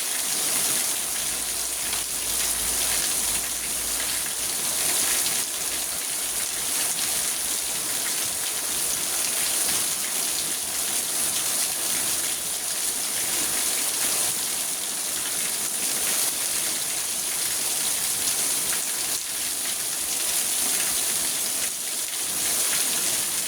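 Rain falling steadily on a car's roof and windows, heard from inside the car.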